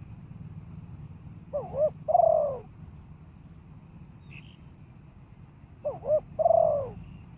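Spotted dove cooing twice, each call two quick short notes followed by a longer falling coo, about four seconds apart, over a steady low background rumble.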